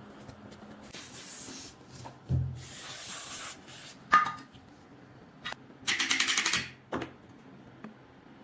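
Rusty metal parts being rubbed and scraped by hand in short bursts, with a sharp metallic knock about four seconds in. Near six seconds comes a quick run of rasping strokes, and another knock follows.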